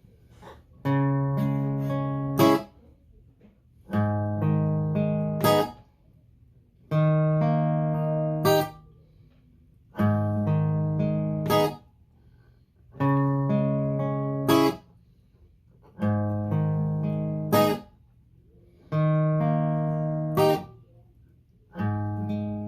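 Guitar playing a slow, repeating intro figure: the same held chord phrase comes round about every three seconds, each one ending in a sharp percussive stab that cuts it off, with short pauses between.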